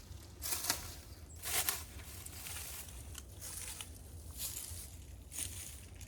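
Rustling and scraping handling noise, with two louder bursts about half a second and a second and a half in, then softer rustles, over a steady low rumble.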